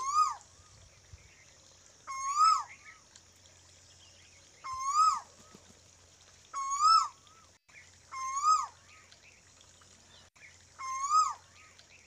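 A bird calling six times, about two seconds apart; each call is a short clear note that rises and then falls.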